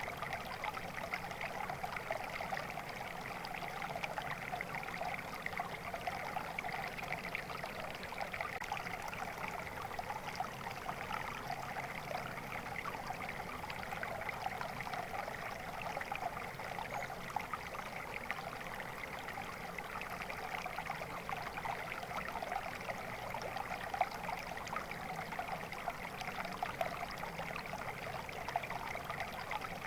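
Steady flowing stream water babbling and trickling over stones, a dense, even splashing that never lets up.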